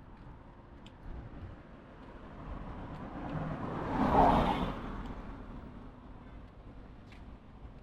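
A motor vehicle passing by on the road: its noise swells, peaks about four seconds in, and fades again over a low background rumble.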